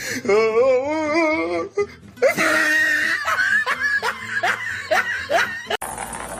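A person laughing, first in a long wavering laugh and then in quick repeated bursts, over background music; the sound cuts off abruptly near the end.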